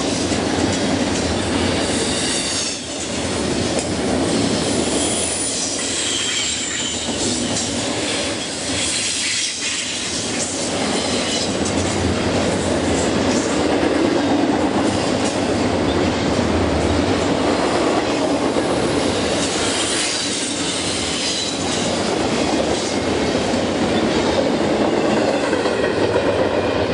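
A train rolling past close by, its wheels clattering over the rail joints and squealing in high tones now and then.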